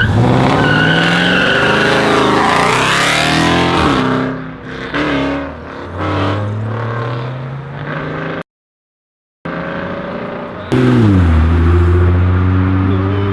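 A muscle car's tyres squealing as it accelerates away hard, with its engine running loud and then fading as it goes. After a brief gap in the sound, another car's engine comes in suddenly and loud, revving and then holding a steady pitch as it pulls away.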